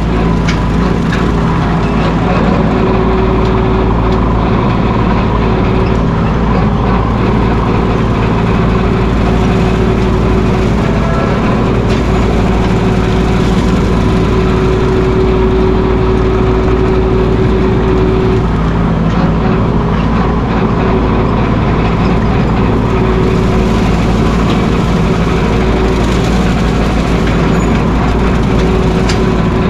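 Mahindra 1626 sub-compact tractor's diesel engine running steadily and loudly, with a constant low hum and a few steady tones.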